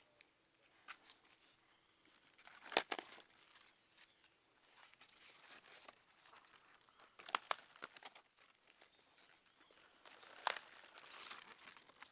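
Leaves and stems rustling and being snapped off by hand while greens are picked: a sharp snap about three seconds in, two quick ones about halfway through and another near the end, over a soft rustle of foliage.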